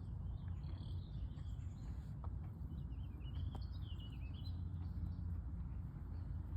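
Wild birds chirping in short, warbling calls, twice in brief clusters, over a steady low rumble.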